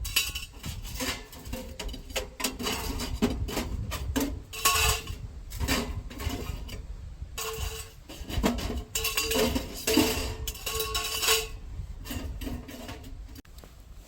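Metal clanking and clinking: an irregular run of knocks and clinks, several leaving a brief ringing tone, with the busiest clatter in the second half.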